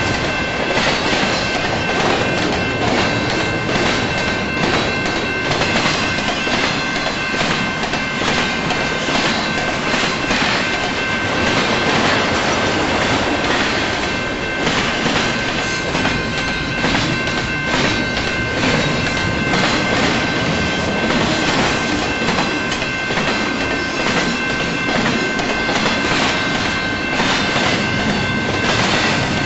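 Double-stack container train rolling past on welded well cars: a steady rumble of wheels with frequent clicks as they cross rail joints, and a steady high-pitched wheel squeal over it.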